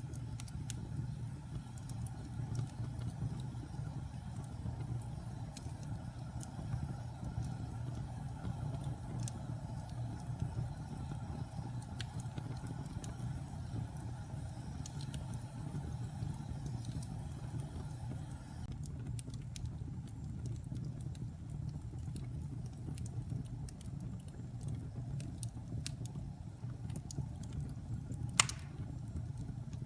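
Wood fire burning in a fireplace: a steady low rumble with sparse crackles, and one sharp pop near the end.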